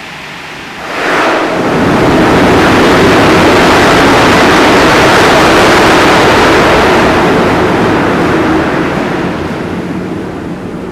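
230-megawatt Francis hydro turbine starting up: a loud, even rushing noise swells up about a second in, with a faint steady hum beneath it, and eases off near the end.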